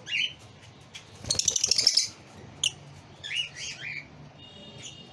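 Lovebirds chirping and squawking in short, shrill bursts, loudest about a second and a half in, with a softer cluster of chirps later on.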